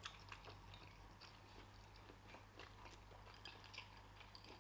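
Faint chewing of a mouthful of food, with small irregular mouth clicks, over a steady low hum.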